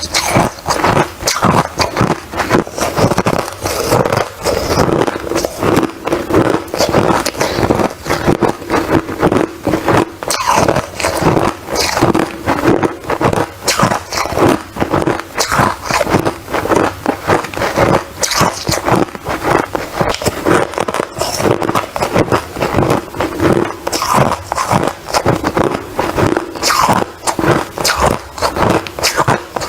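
Ice being bitten and chewed close to the microphone: a continuous run of loud, rapid crunches and cracks.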